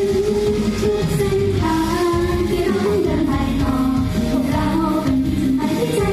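Live Thai idol-pop performance: female voices singing a melody over loud, steady band backing.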